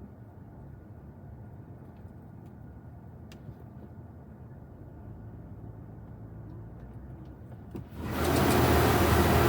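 Low steady hum in a touchless Laserwash 360 car wash bay, heard from inside the car. About eight seconds in, a sudden loud rush of high-pressure water spray starts hitting the car.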